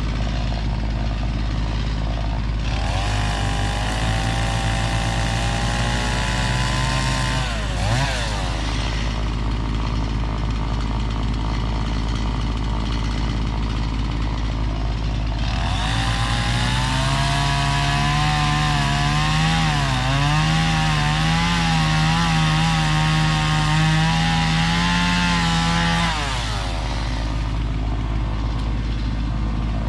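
Stihl chainsaw idling, then twice brought up to full throttle and cutting into wood: first for about five seconds, then for about ten seconds. The pitch wavers and dips as the chain loads in the cut, and drops back to idle after each cut.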